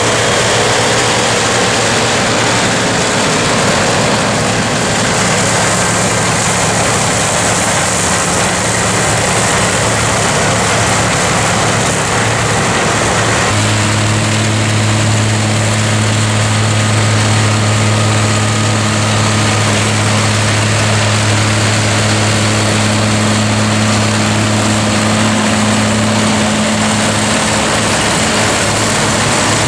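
Massey Ferguson tractor running at steady revs, driving a forage harvester cutting silage. About halfway through, a strong, steady low hum takes over.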